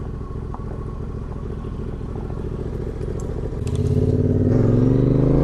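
Adventure motorcycle engine running at steady low revs on a dirt trail, growing louder about three and a half seconds in as the pitch slowly rises under acceleration.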